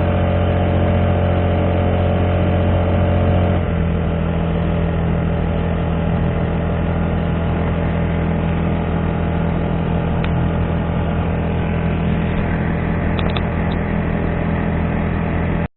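Honda GX35 35cc four-stroke engine driving a kayak, running steadily; about three and a half seconds in the throttle is eased back and it settles at a lower, steady speed. The sound cuts off suddenly near the end.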